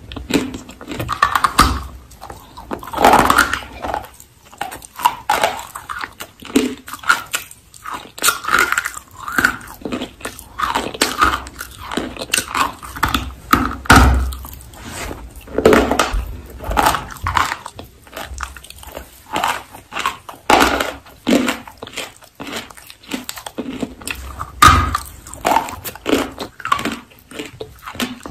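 Close-up biting and chewing of a dry, chalky blue lump, crunching and crumbling in irregular bites with short pauses between them.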